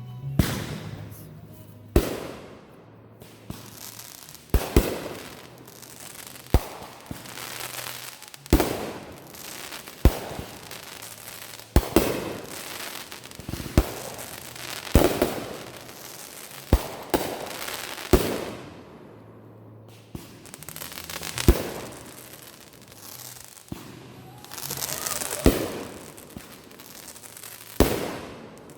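Consumer fireworks going off in a string of sharp bangs, roughly one every one to two seconds, some followed by a longer trailing tail.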